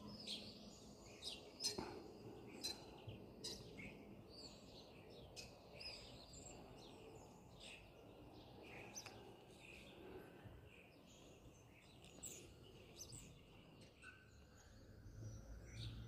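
Faint small birds chirping: many short, scattered chirps and brief whistled notes over a quiet steady background.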